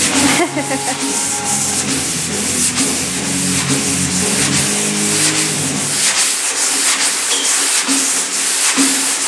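Sanding on car bodywork: rhythmic rasping strokes, about three or four a second, over background music.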